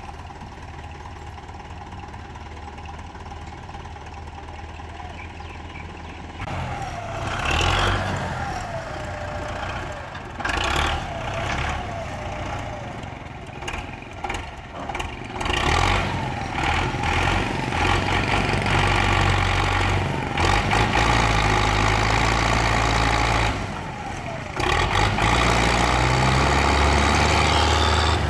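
Tractor engine running low and steady, then from about six seconds in louder and uneven, revving up in repeated surges.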